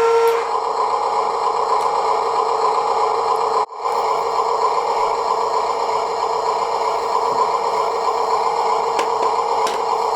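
Electric drive motors and metal gearbox of a Huina 1582 1:14-scale RC dump truck whirring steadily, with a brief cut-out a few seconds in before the whir resumes.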